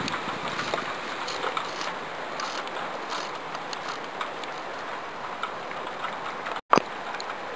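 Falling snow ticking on surfaces: many small irregular ticks over a steady hiss. Near the end the sound cuts out for a moment and comes back with a sharp click.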